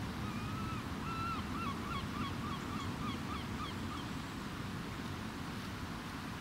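A bird calling: two longer notes, then a quicker run of about eight shorter notes that fades out about four seconds in, over a steady low background noise.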